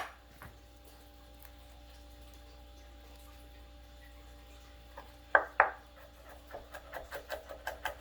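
Kitchen knife chopping on a cutting board: a single knock, a pause, two hard strikes, then a quick run of lighter chops, about five a second.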